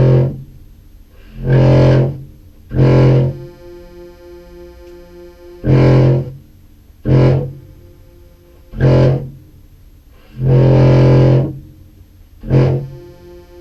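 Contrabass clarinet played through fuzz pedals: about eight short, loud, distorted notes on the same low pitch, one held longer near the end, with a quieter pulsing tone between them. The notes are repeated while the player coaxes a Meris Enzo synth to track the low register, where it is picky.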